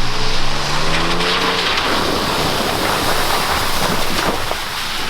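A vehicle engine revving, rising in pitch for about two seconds, then giving way to a steady loud rushing noise.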